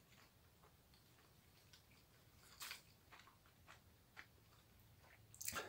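Near silence with faint, scattered wet clicks from a person's mouth as he chews, and one louder click near the end.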